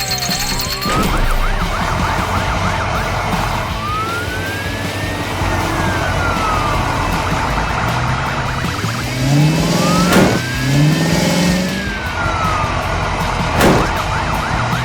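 Emergency-vehicle siren switching between a fast yelp and slow rising-and-falling wails, over background music, with a few sharp hits along the way.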